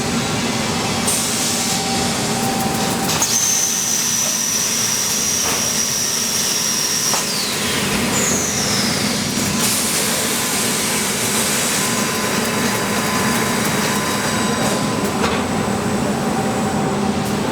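Factory machinery running with a steady mechanical din and a low hum. About three seconds in, a high whine starts and holds for about four seconds before falling away, and a second, shorter whine falls in pitch soon after.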